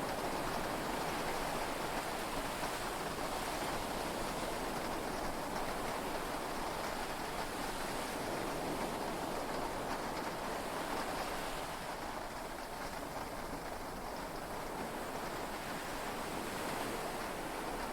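Heavy rain on a yacht's cabin with sea waves, heard from inside: a steady, even hiss that eases slightly a little past the middle, with no thunderclap.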